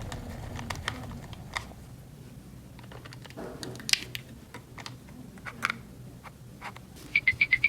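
Light plastic clicks and taps at irregular intervals, typical of small toy kitchen pieces being handled and set down. Near the end comes a fast run of about ten short high beeps.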